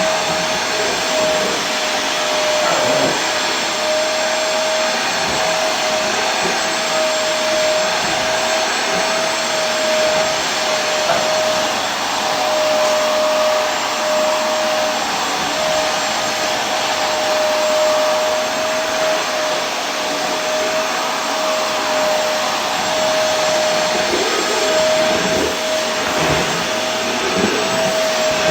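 Vacuum cleaner running steadily, a constant motor whine held at one pitch over an even hiss.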